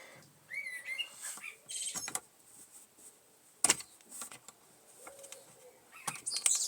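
Handling noises from working a small metal part back into place on a Mamod SW1 toy steam wagon: scattered sharp clicks and taps, with a short squeak about half a second in.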